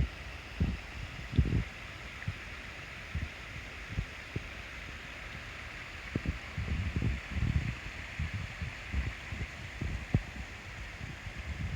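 A small waterfall's steady rush of water, with irregular low thumps of wind buffeting the microphone, thickest in the second half.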